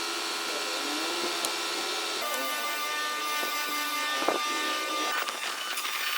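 A power tool running and working wood, with a steady whine whose pitch wavers; the sound shifts about two seconds in, and there is a single sharp knock a little after four seconds.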